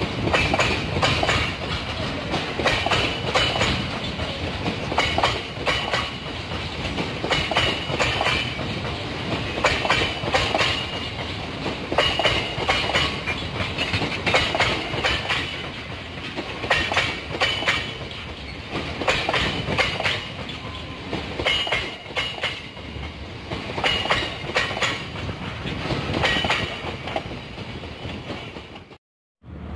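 Freight train's coal hopper wagons rolling past, wheels knocking over rail joints in a steady clickety-clack, with short high wheel squeals coming and going. The sound cuts off suddenly near the end.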